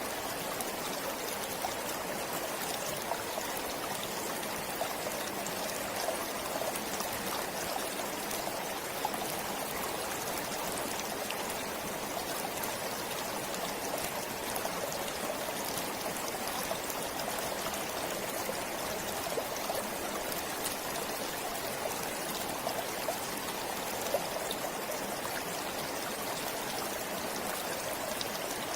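Forest stream flowing steadily over rocks, an even rushing with fine trickling and splashing throughout.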